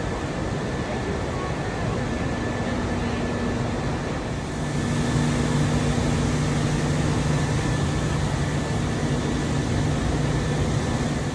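Steady machinery drone with a rushing noise and a few constant hum tones. A deeper hum comes in about four and a half seconds in and the level rises slightly.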